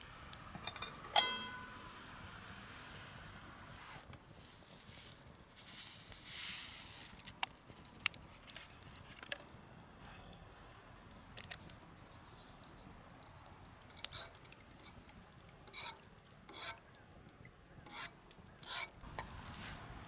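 A sharp metallic clink about a second in that rings briefly, then scattered small clicks, knocks and rustling: camp cookware and utensils being handled.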